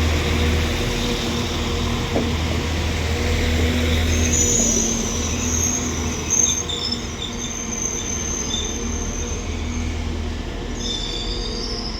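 Northern Class 195 diesel multiple unit arriving into the platform, its diesel engines giving a steady low rumble. From about four seconds in there is a thin high-pitched squeal as the train slows.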